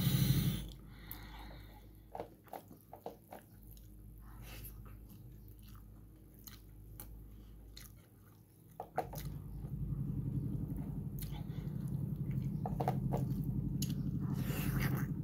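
Close-up mouth sounds of eating boiled fatty meat and rice by hand: chewing with scattered wet smacks and clicks. A steady low hum comes in about nine seconds in.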